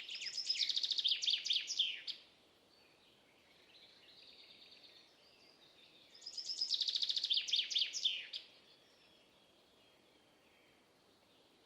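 A songbird singing two loud, rapid trilled phrases about six seconds apart, each lasting around two seconds, with fainter, softer bird song in the gap between them.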